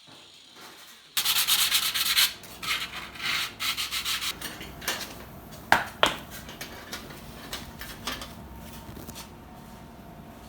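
Hand sanding or filing of sheet-metal tinplate: quick back-and-forth scraping strokes start abruptly about a second in and thin out after a few seconds, with two sharp clicks near the middle.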